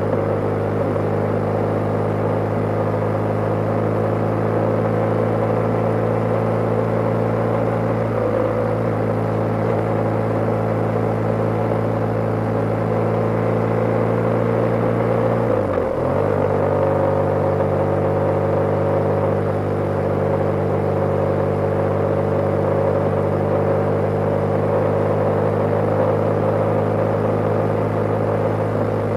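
BMW G/S motorcycle's boxer-twin engine running steadily at cruising speed, with wind rush. The engine note dips briefly about halfway through, then settles back to a steady note.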